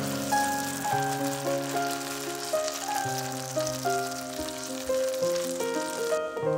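Potato pancakes sizzling steadily as they fry in a pan, under background music with a melody.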